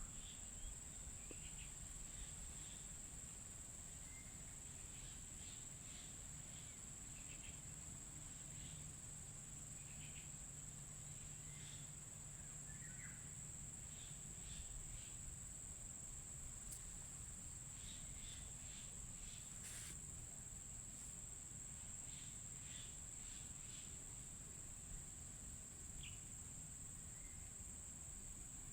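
Faint outdoor ambience: a steady, high-pitched insect drone throughout, with scattered short, faint bird chirps, clustering around the middle and again near the end.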